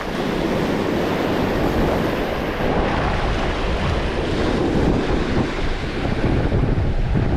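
Ocean surf washing, with wind buffeting the microphone in a heavy low rumble.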